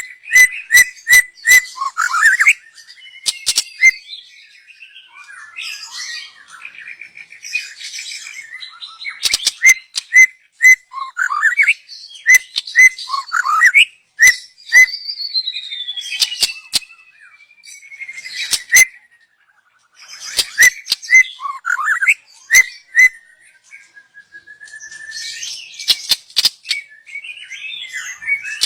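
White-rumped shama singing in loud bouts: quick runs of repeated whistled notes, slurred phrases and sharp clicking notes, with a long whistle that glides down in pitch near the middle and short pauses between phrases.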